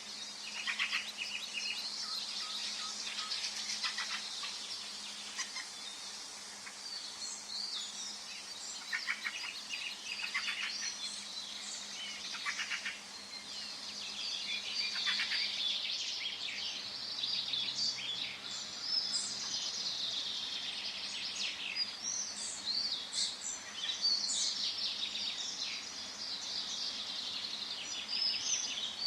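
Several birds calling and singing at once in a forest chorus, with quick chirps and rapid trills overlapping over a faint steady background hiss.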